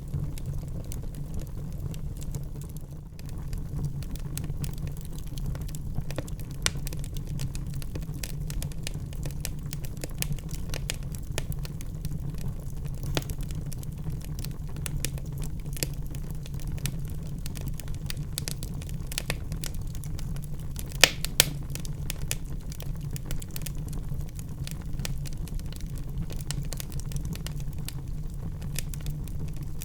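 Wood fire burning in a fireplace: a steady low rumble of flames with frequent small crackles and pops, and two louder snaps about two-thirds of the way in.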